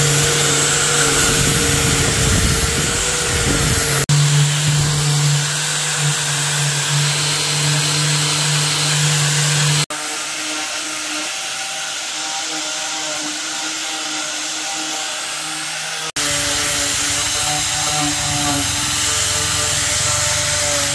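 Electric power tools running steadily in a workshop, heard as a series of clips that cut off suddenly about every six seconds, each with its own steady motor whine and hiss.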